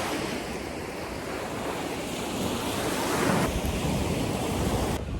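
Ocean surf washing onto the shore, with wind buffeting the microphone; a wave swells loudest about three seconds in.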